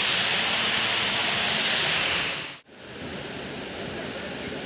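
Steady rushing roar of a waterfall. It breaks off sharply a little past halfway, then goes on slightly duller.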